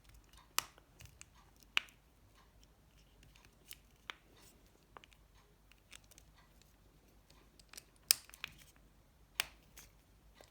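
Irregular sharp clicks from a small screwdriver turning screws in a Nokia 7373's plastic housing during reassembly. The repairer doesn't like the sound and suspects his screwdriver or a bad screw.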